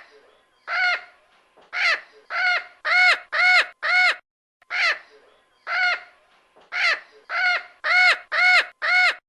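A bird calling in a series of loud, arched caws, about thirteen in two runs, the calls coming faster toward the end of each run.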